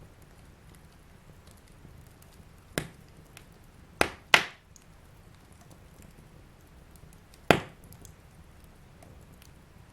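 Wood fire burning in a fireplace with a faint, steady crackle, broken by four loud, sharp pops: one about three seconds in, two in quick succession around four seconds, and one more near seven and a half seconds.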